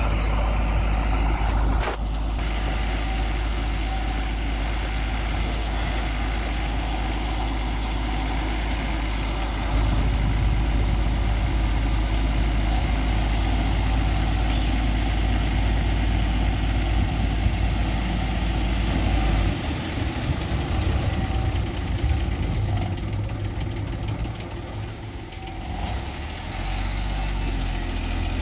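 Heavy diesel engine running steadily, its note changing about ten seconds in and turning rougher and more uneven about twenty seconds in.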